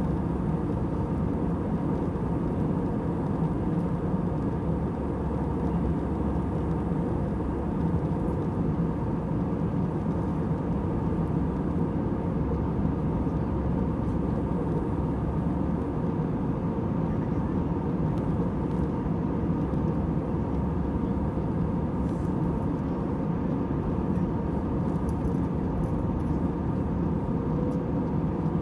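Steady drone and rush of an airliner's passenger cabin in flight: a low engine hum under even airflow noise, unchanging throughout.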